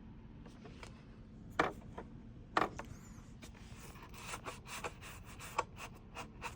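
Handling noise from hard plastic parts being moved: two sharp knocks, then a run of small clicks and scrapes.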